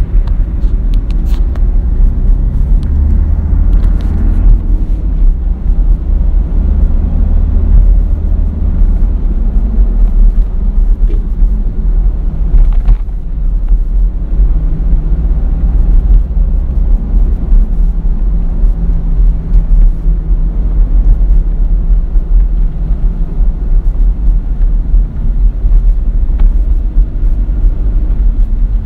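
Mitsubishi Montero Sport's 2.5-litre four-cylinder common-rail turbodiesel running under way, heard from inside the cabin as a steady low drone mixed with road noise, its pitch drifting gently as the car drives along.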